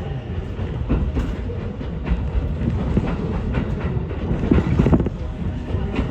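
Ichibata Electric Railway electric train running, heard inside the car: a steady low rumble with irregular clacks and knocks from the wheels on the track.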